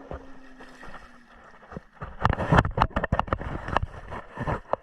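Water splashing as a hooked largemouth bass thrashes at the surface, in a run of loud, irregular splashes from about two seconds in.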